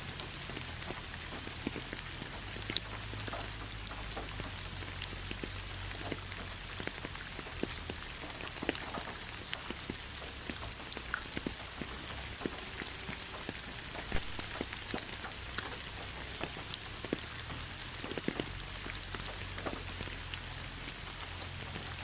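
Autumn rain falling steadily on fallen leaves, a constant patter with many separate drops ticking sharply on the leaves.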